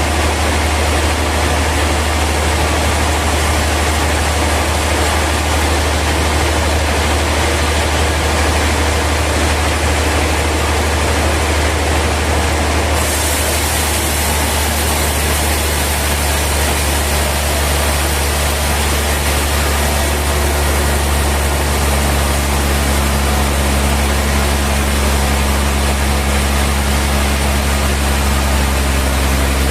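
Sawmill machinery running: a steady heavy motor drone under a dense wash of noise. About halfway through the sound shifts and a few steady low hums join in.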